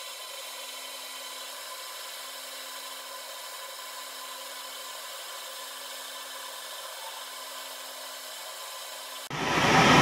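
Metal lathe running a steady boring cut on a bearing end cover: an even hiss from the tool with a faint steady motor hum. About nine seconds in it breaks off sharply into a much louder, deeper machine running sound.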